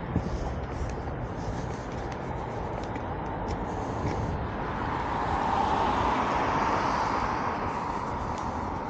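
Street traffic noise, with a car passing close by that swells and fades about five to eight seconds in.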